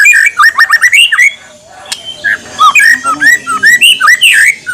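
White-rumped shama (murai batu) singing: fast runs of short, rising whistled notes, pausing briefly about a second and a half in, then going on with more phrases.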